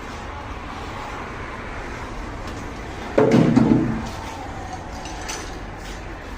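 A single heavy slam about three seconds in, dying away within a second, over a steady low rumble.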